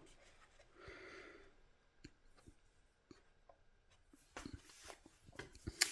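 Faint scattered clicks and taps of small parts being handled on a workbench, with a soft brief hiss about a second in and a quicker run of small clicks near the end.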